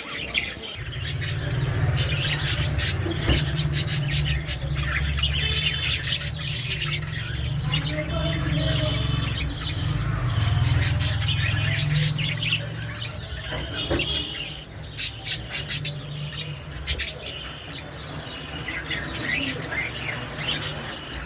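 Caged budgerigars chirping, chattering and squawking continuously, over a steady low rumble that fades out near the end.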